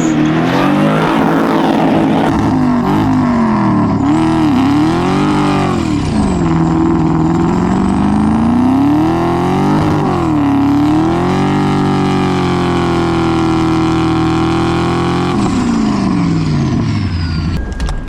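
Turbocharged M62 V8 in a BMW E30 revving up and down several times, holding high revs for a few seconds, then dropping off near the end.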